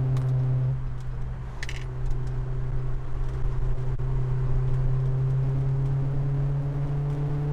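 Honda S2000's four-cylinder engine running at steady, raised revs while the car is driven, heard from the cabin, with a brief dip in the note about a second in. No timing-chain rattle: the worn chain tensioner has just been replaced.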